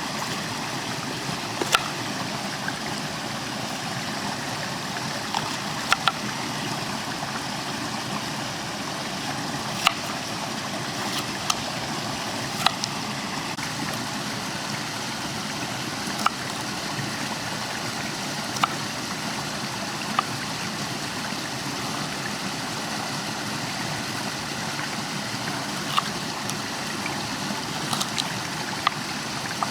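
Food frying in a pan over an open campfire: a steady sizzle with sharp crackling pops every second or two.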